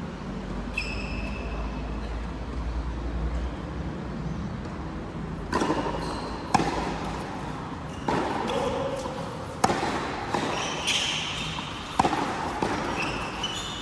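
A racket-and-ball rally: sharp ball strikes start about five seconds in and come every one to two seconds. Before that there is a steady low hum and a couple of short high squeaks.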